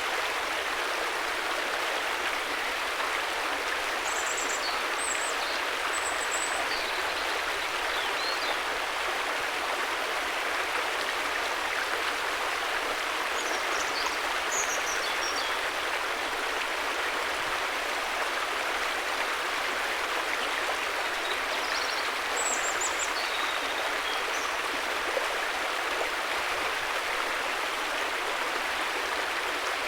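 River water flowing over rocks with a steady, even rushing sound, with short high chirps now and then.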